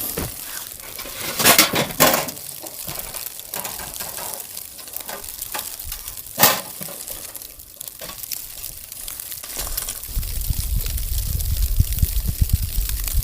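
Handling of liquid, with a few sharp knocks. A low rumbling sets in near the end.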